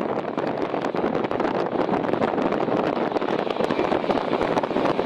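Steady rushing noise of a passenger airliner during takeoff or landing, mixed with crackling wind on the microphone.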